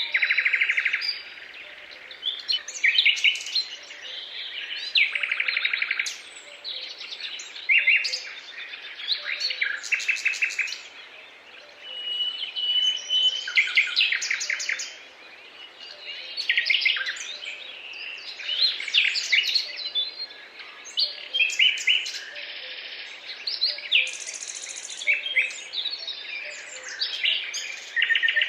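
Several songbirds singing at once: a near-continuous chorus of chirps, whistled notes and rapid buzzy trills.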